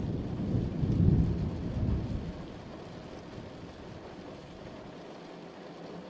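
Thunder rumbling over steady rain; the rumble dies away a little over two seconds in, leaving the even hiss of the rain.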